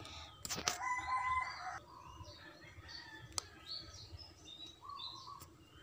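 Faint birds chirping in short, scattered calls, with a held whistle-like tone lasting about a second near the start and a few sharp clicks.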